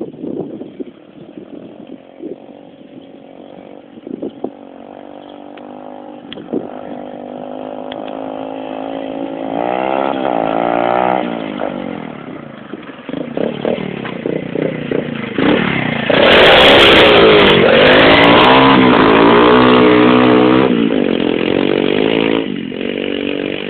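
Pit bike engine revving up and down as the bike rides, its pitch rising and falling again and again. It grows steadily louder, is loudest from about sixteen to twenty-one seconds in, then drops back.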